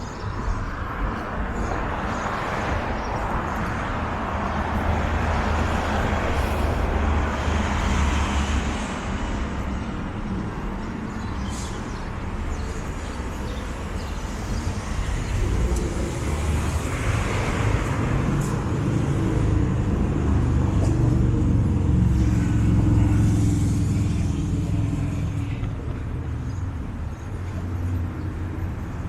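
City street traffic: cars passing, with a low engine rumble that grows stronger about halfway through and holds for several seconds.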